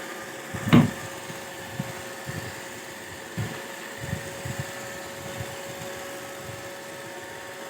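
Roomba robot vacuum running with a steady whirring hum, with one sharp knock about a second in and a few soft low thumps.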